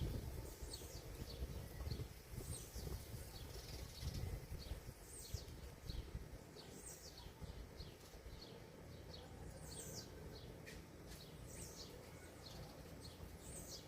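Small birds chirping: a steady run of short, high chirps that drop in pitch, repeated every half second or so, with a low rumble underneath, strongest in the first second.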